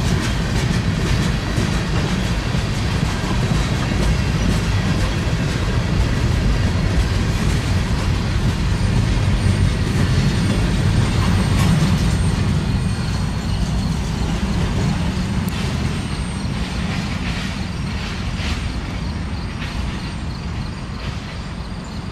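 Freight cars (tank cars, autoracks and a covered hopper) rolling past on steel rails: a steady rumble of wheels on track with scattered clicks, fading slowly over the last few seconds as the train draws away.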